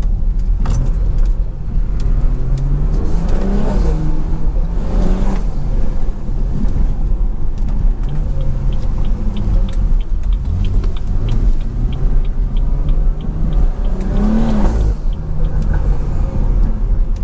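Stage 2 tuned BMW 340i's B58 turbocharged inline-six with a catless downpipe, accelerating hard with the revs climbing in the first few seconds, then running steadily before a second rev climb that drops off suddenly near the end. A faint quick regular ticking sits under the engine in the middle stretch.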